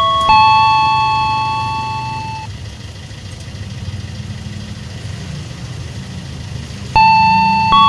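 Level-crossing warning chime striking a couple of bell-like notes that ring and fade, then pausing for about four seconds while a vehicle engine runs low underneath; the chime notes start again near the end.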